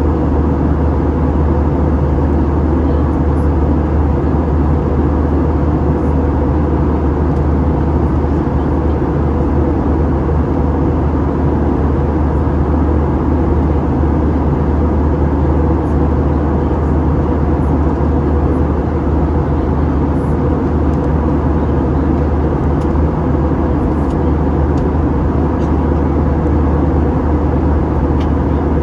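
Steady, loud roar inside the cabin of an Airbus A321: engine and airflow noise with a strong low hum, unchanging throughout.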